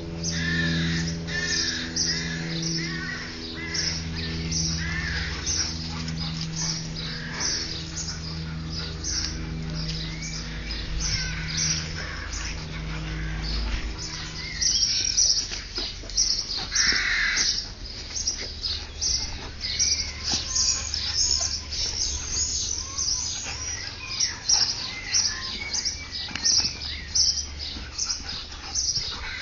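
Garden birds chirping, with a crow cawing. A low humming note repeats in about one-second pieces through the first half and then stops.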